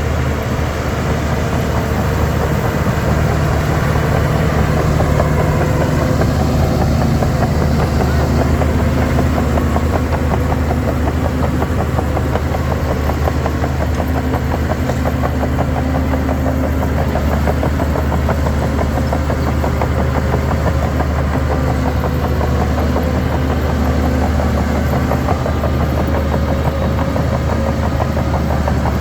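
Shantui DH17 bulldozer's heavy diesel engine running steadily, with a fast, even firing rhythm.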